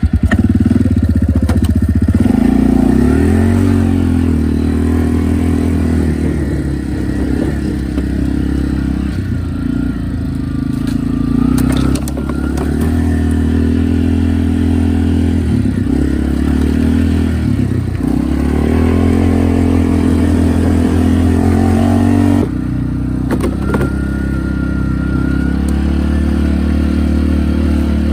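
Four-wheeler (ATV) engine running, its note rising and falling again and again as the throttle is opened and eased off, with a few sharp clatters.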